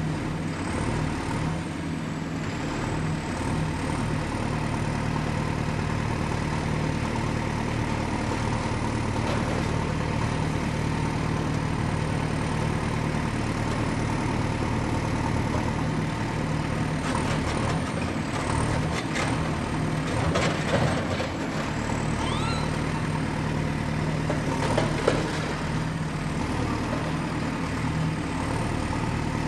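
Excavator's diesel engine running steadily, with a cluster of sharp knocks and clanks about two-thirds of the way in and another brief one near the end.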